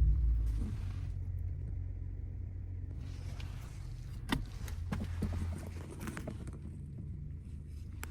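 2019 Ram 1500 Classic's 3.6-litre V6 gasoline engine idling steadily, with a sharp click about four seconds in and a few lighter knocks after it.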